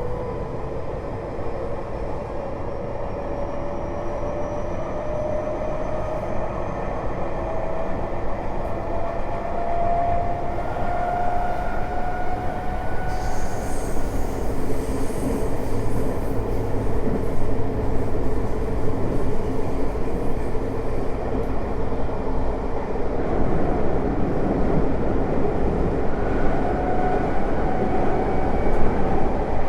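Inside a Tokyo Metro 05 series subway car: the Mitsubishi IGBT VVVF inverter traction motors whine steadily, rising in pitch as the train gathers speed, over continuous wheel and rail running noise. A hiss joins in about thirteen seconds in, and a fresh rising whine comes in near the end.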